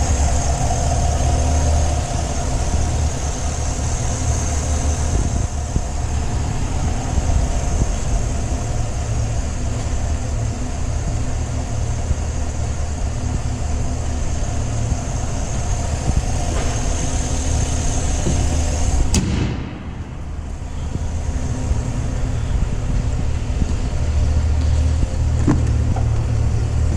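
Chevrolet Tahoe 6.2-litre V8 idling steadily, warmed up. About two-thirds of the way through, the level drops briefly, then the steady idle carries on, with a small click near the end.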